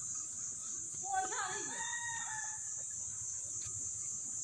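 A rooster crows once, starting about a second in and lasting about a second and a half, with its pitch rising and then held.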